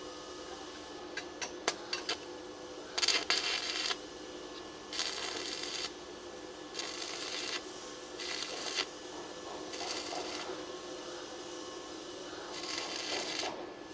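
Short bursts of welding arc crackle, about six tack welds of half a second to a second each, the first, about three seconds in, the loudest. A few sharp metallic clicks come just before it, over a steady hum.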